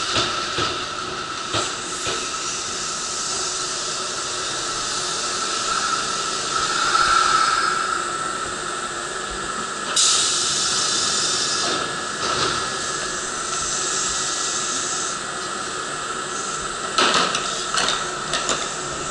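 Kintetsu Kashihara Line train running: a steady hiss of running noise with a steady high whine. About halfway through a louder hiss sets in, and near the end come several sharp clicks.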